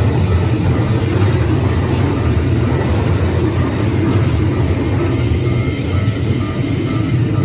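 Keikyu Line electric train passing over a level crossing, a steady, loud rumble of wheels on rails with a faint high whine coming and going.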